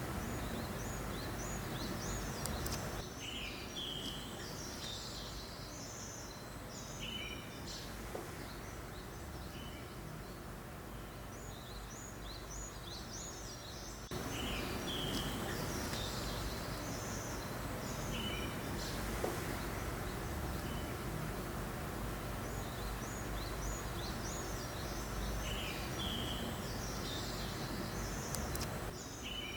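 Small birds chirping in short, repeated calls over a steady breeze-like noise.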